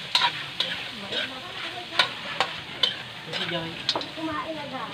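Chicken pieces sizzling in hot oil in a metal wok while a spatula stirs them, scraping and clinking sharply against the pan several times at irregular intervals over a steady frying hiss.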